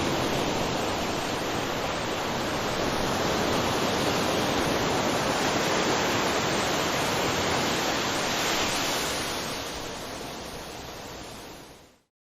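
Ocean surf washing onto a beach: a steady rush of breaking waves with one last swell. It then fades and cuts off to silence near the end.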